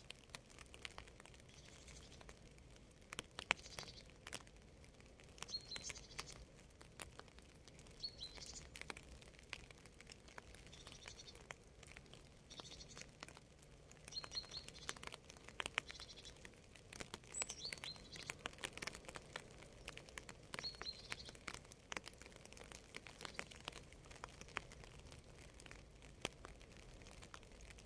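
Rain falling in scattered, irregular drips and patters, with a bird chirping short phrases every few seconds.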